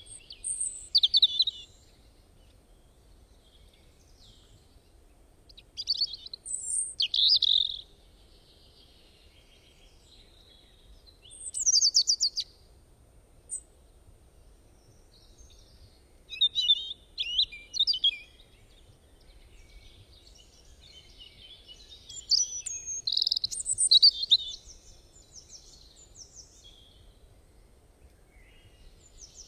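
Songbirds singing: short phrases of quick, high chirps and trills that come every five seconds or so, with quiet between them.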